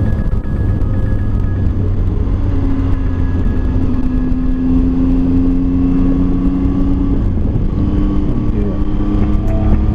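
Motorcycle engine running on the move under heavy wind rush, its note shifting up and down a few times.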